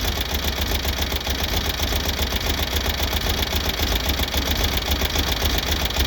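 1970 VW Beetle's air-cooled flat-four engine idling steadily with a clatter of valve tapping, which the owner takes for valves adjusted a little loose. The engine now runs evenly with its cylinder 2 misfire cured.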